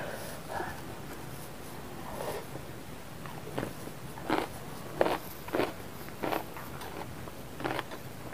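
A person biting into and chewing a bok choy stalk close up, with crisp crunches. From about three and a half seconds in, a run of sharp crunches comes roughly every two-thirds of a second.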